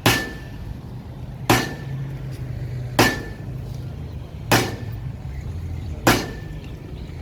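Hammer blows struck in a steady rhythm, one about every second and a half, each with a short metallic ring, over a steady low engine hum.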